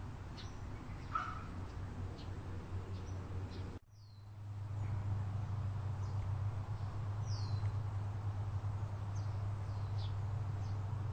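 Small birds chirping with short, high, falling notes several times over a steady low rumble. The sound cuts out briefly about four seconds in, and the rumble comes back louder.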